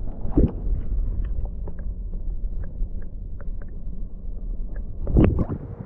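Outdoor wind rumbling on the microphone, with scattered light clicks and knocks. There is a louder thump about half a second in and another about five seconds in.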